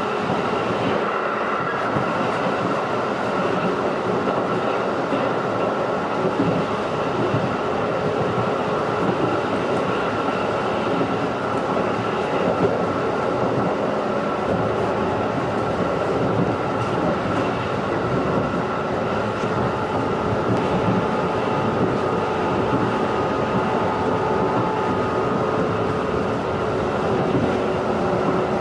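JR 211 series electric multiple unit running at a steady speed, heard from inside the car: a continuous rumble of wheels on rail with a steady, even-pitched whine from the traction motors and gears.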